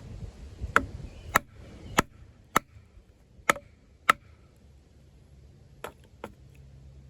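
Off-Grid Caiman XXL bowie knife, a 7-inch D2-steel blade, striking into wood. There are eight sharp knocks, coming in pairs about half a second apart, with short pauses between the pairs.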